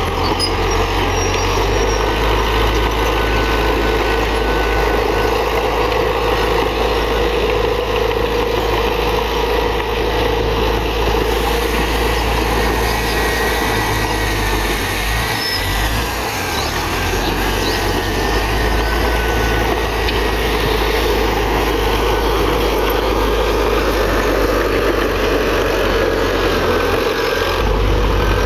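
Heavy diesel earthmoving machine running steadily under load, with a slight dip in level about halfway through and faint high squeaking tones.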